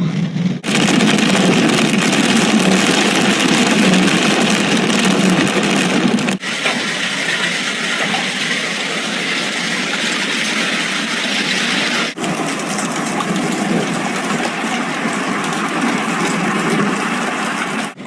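Hail pelting down in a dense, steady rattle. It breaks off abruptly three times, about half a second in, about six seconds in and about twelve seconds in, and resumes after each break.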